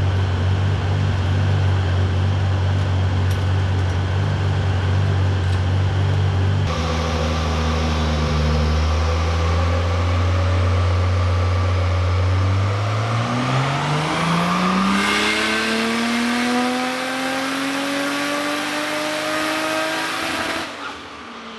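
Nissan Skyline R31's engine running on a chassis dyno. It is held at steady revs under load, then a power run follows: the revs climb steadily for about seven seconds, and it lifts off just before the end.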